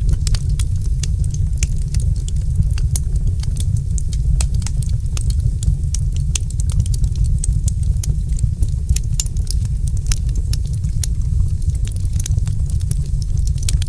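Wood fire in a fireplace crackling: a steady low rumble with frequent, irregular sharp crackles and pops.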